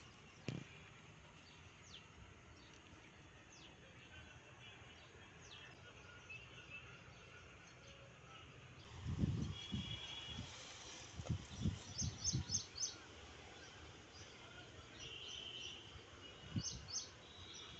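Faint outdoor ambience with small birds chirping in short quick runs, and a few low thumps from about halfway through.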